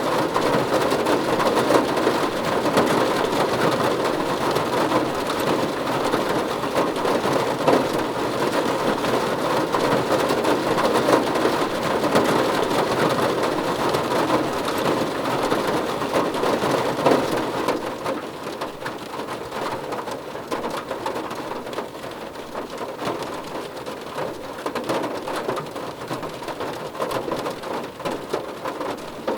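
Rain falling on a car roof: a dense, steady patter of drops on the metal. It eases and grows quieter about 18 seconds in.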